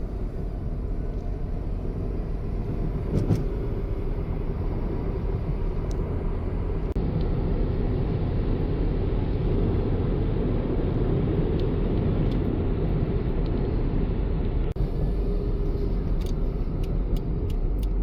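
Car being driven, with steady engine and tyre rumble, and one brief knock about three seconds in.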